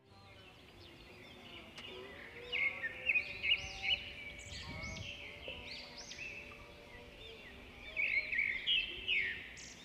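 Small birds chirping and twittering in quick rising-and-falling notes, starting about two seconds in and getting busiest near the end, with faint music underneath.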